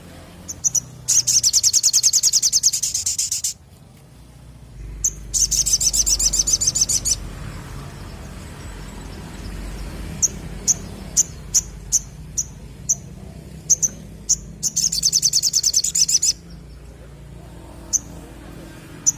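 Little spiderhunter (sogok ontong) singing. It gives three long, very rapid high trills of about two seconds each, and between them a run of sharp single chips about twice a second.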